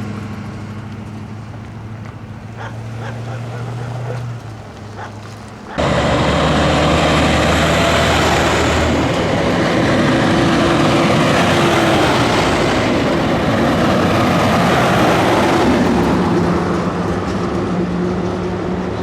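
Heavy vehicle engines running, with a steady low engine tone; about six seconds in the sound jumps abruptly to a much louder rush of engine and road noise that eases near the end.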